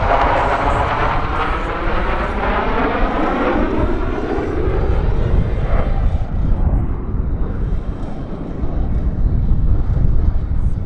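Jet noise from a USAF Thunderbirds F-16 Fighting Falcon flying past. The sound falls in pitch over the first five seconds as it goes by, then carries on as a rumble that dips and builds again near the end.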